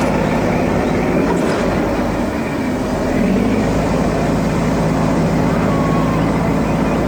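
Excavator engine running steadily, a dense, even mechanical rumble.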